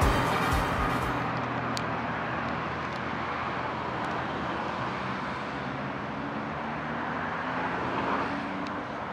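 Music fades out in the first second, then the steady rumble of a Keihan 600-series train approaching along the track, with a few faint clicks.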